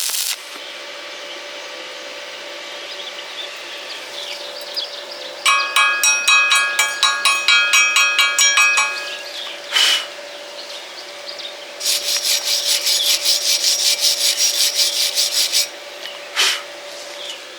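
A hand tool scraped back and forth over metal in quick, even strokes, about four a second, in two spells. In the first spell the metal rings; the second is a hissier brushing. A steady faint hum runs underneath.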